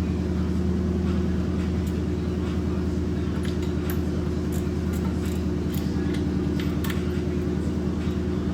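A steady low mechanical hum, like a running motor, with scattered light clicks and taps between about two and seven seconds in.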